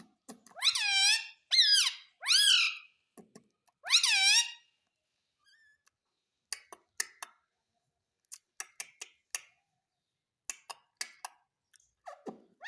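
Pet parrot calling: four high-pitched calls in the first few seconds, each rising then falling in pitch. These are followed by a scattering of short clicks and faint chirps.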